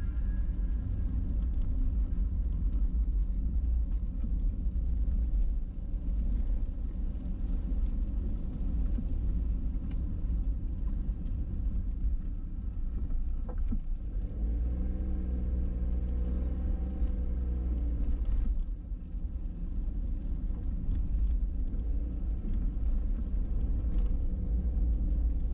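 Low, steady rumble of a car on the move. A pitched engine note rises for a few seconds around the middle.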